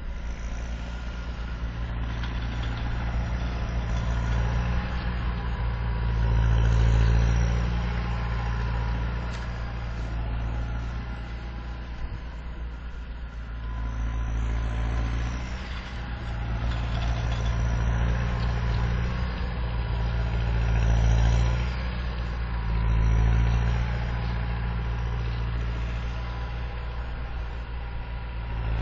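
Massey Ferguson 5455 tractor's turbo-diesel engine running while snowblowing, its low drone swelling louder and easing off several times, with a thin turbo whistle coming and going above it.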